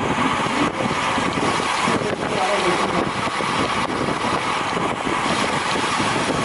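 Steady rush of wind over a moving camera's microphone, with faint voices underneath.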